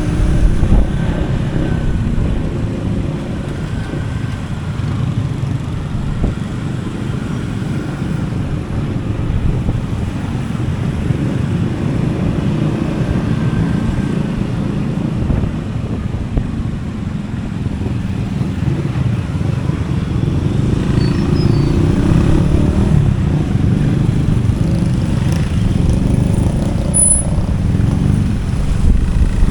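Motorcycle on the road, its engine running under a steady low rumble of wind on the microphone.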